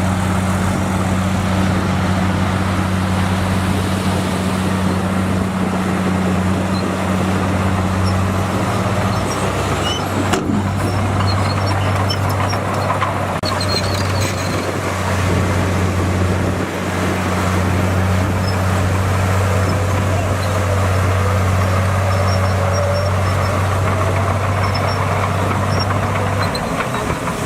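Bulldozer's diesel engine running with a steady, low drone, its note shifting briefly about nine seconds in.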